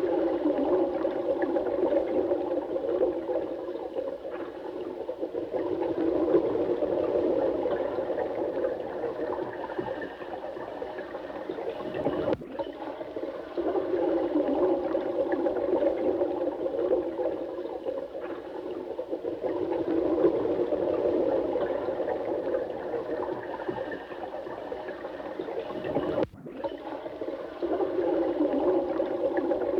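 Running water rushing steadily, its sound centred low-to-mid, with a very brief dip twice, about fourteen seconds apart.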